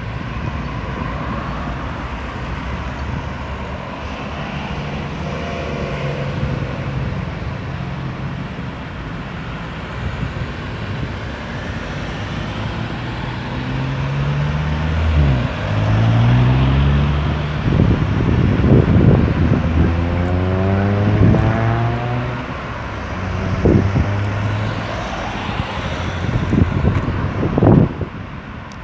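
Road traffic passing steadily, with vehicles accelerating away, their engine notes rising and stepping up through the gears in the middle stretch, and a few short knocks.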